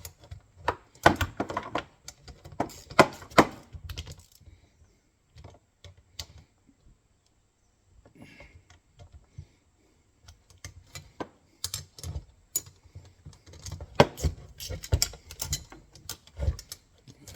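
Irregular metallic clicking and clinking of a wrench working the bolts on the steel frame of an MB-550 foothold trap as they are tightened down. The clicks come in busy clusters, with a sparser spell in the middle.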